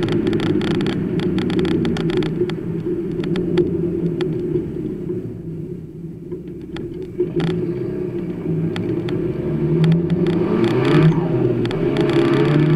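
Mazda 323's turbocharged B6T four-cylinder engine, run at 0.6 bar boost, heard from inside the stripped cabin while being driven hard: the revs ease off around the middle, then climb again in the second half. Sharp clicks and knocks from the car's body run throughout.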